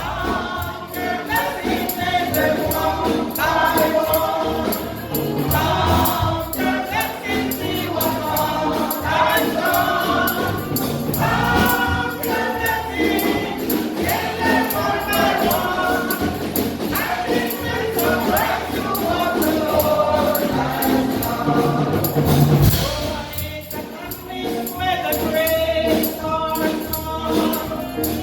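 Congregation or choir singing a gospel song with band accompaniment and a tambourine keeping a steady beat.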